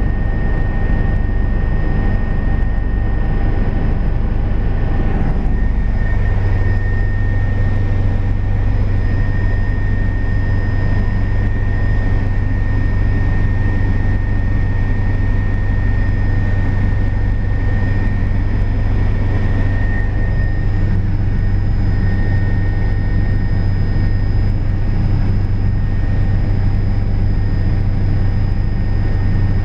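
Helicopter turbine engine and rotor running steadily, heard from inside the cabin as a loud constant drone with a steady high whine over it. About six seconds in, the low drone shifts slightly.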